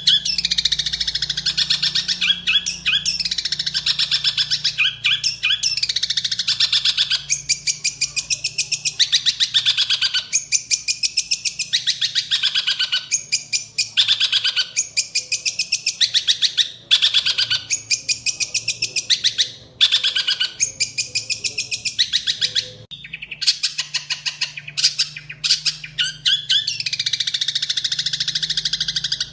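Long-tailed shrike (cendet) singing a fast, harsh, chattering song, packed with mimicked sparrow-like notes, in phrases of a second or two broken by brief pauses. A faint low hum runs underneath.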